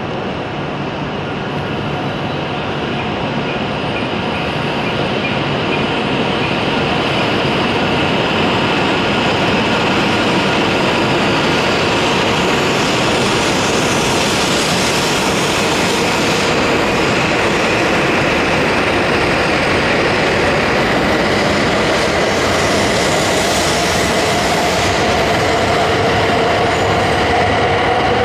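Shinkansen train at the platform: a steady rush of running noise that grows louder over the first several seconds, with an electric motor whine whose pitch rises near the end as the train gains speed.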